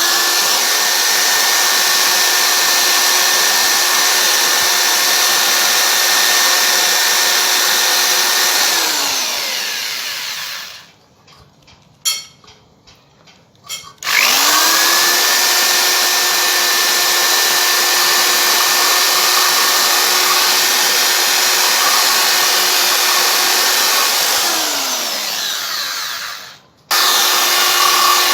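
Electric power tool motor running with a steady whine. It spins down with falling pitch and stops about ten seconds in. It starts up again a few seconds later with a rising whine, runs, winds down and stops near the end, then starts once more just before the end.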